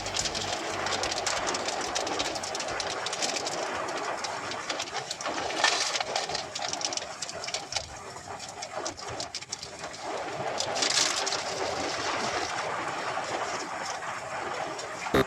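Heavy rain: a steady, noisy hiss with irregular fine patter that swells briefly twice. A loud buzzing tone cuts in at the very end.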